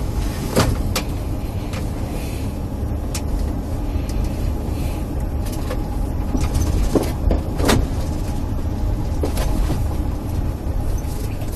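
Patrol car driving, heard from inside the cabin: a steady low road and engine rumble with a few short clicks and knocks.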